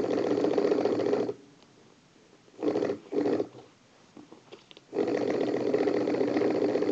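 Small battery-powered electric motor of a homemade spinning toy buzzing steadily. It cuts out after about a second, gives two short bursts, then runs steadily again from about five seconds in.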